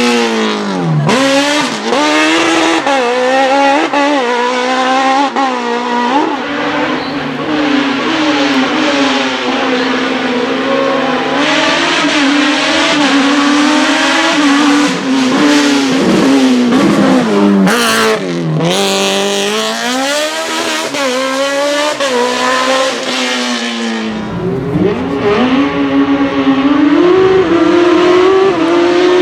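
Modified Autobianchi A112 inline four-cylinder engine run flat out, its pitch climbing and falling through gear changes and lifts, with sharp drops about a second in and twice more later on.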